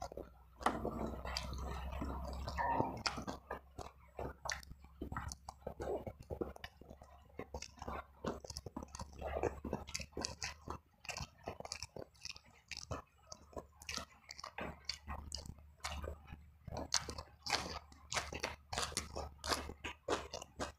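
Close-miked chewing and biting of fried eel and tempeh, with irregular crunches and wet mouth sounds. A steady low hum runs underneath.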